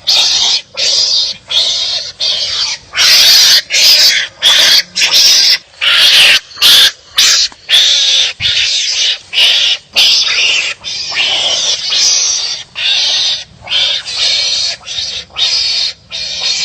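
Wild animals' harsh barking calls, repeated rapidly at about two a second, loudest for a few seconds early on before settling into a steady run.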